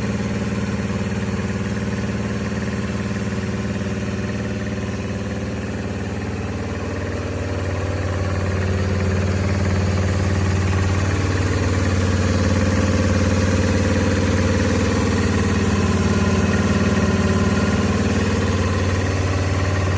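Honda Magna 250 V-twin idling steadily through aftermarket dual exhausts, one muffler on each side. It gets slightly louder about a third of the way in.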